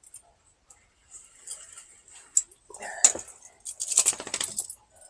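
A dog shaking itself off, the metal on its collar jangling rapidly for about a second near the end, after a few lighter clinks and clicks.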